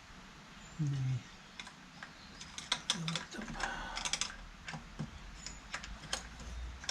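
Rebuilt David Brown 996 tractor hydraulic pump being tried by hand to see whether it will turn: scattered metallic clicks and clunks of the pump and tools, with a brief low hum about a second in.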